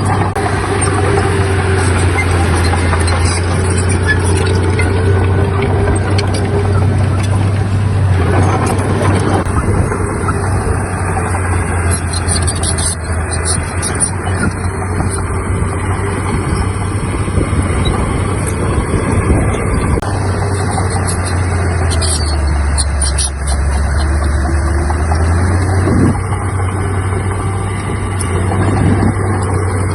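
Heavy diesel earthmoving machinery running steadily. The engine note sags lower for a few seconds about two-thirds of the way through, then recovers, with a few scattered clanks.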